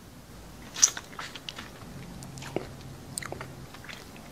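Close-miked crunchy chewing: one sharp loud crunch about a second in, followed by a run of smaller crackling bites.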